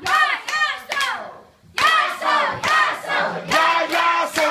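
A group of people singing together, with a few hand claps.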